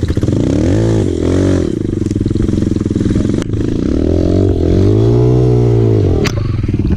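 Dirt bike engine running, revved twice with the throttle: a short rev about a second in and a longer one that rises and falls in the second half. A sharp click comes near the end.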